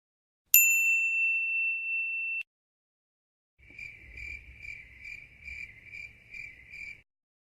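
A single bright ding that rings steadily for about two seconds and then cuts off. About a second later comes a stock cricket-chirping sound effect, about two chirps a second for roughly three seconds.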